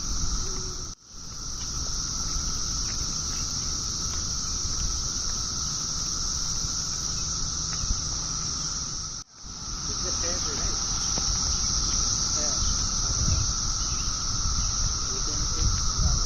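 Cicada singing: a continuous, steady high buzz with a fainter lower tone under it, over a low rumble. The sound cuts out for an instant twice, about a second in and about nine seconds in, then carries on.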